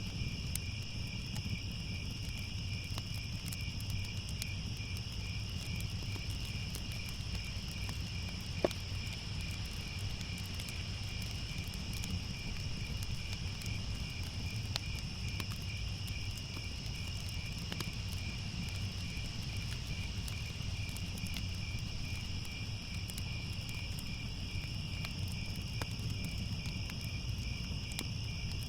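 Crickets chirping in a steady, continuous chorus over a low rumble, with scattered faint clicks and one sharper click about nine seconds in.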